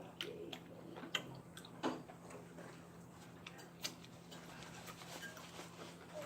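Close-miked chewing of fried chicken: irregular wet clicks and crunches from the mouth, louder about a second and two seconds in, over a steady low hum.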